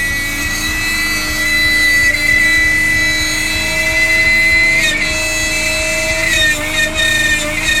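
Electric power tool running steadily, a high motor whine that dips and rises slightly in pitch as the cut loads it.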